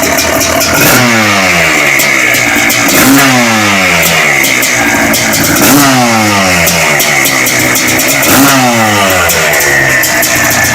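Two-stroke motorcycle engine revved four times, each rev rising sharply and then falling slowly back, with a crisp crackling rattle over it.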